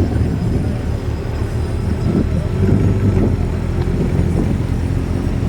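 Corvette engine running at a steady low idle while being manoeuvred into a parking spot.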